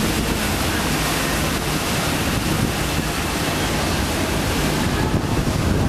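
Steady rush of wind on the microphone and water from a moving river tour boat.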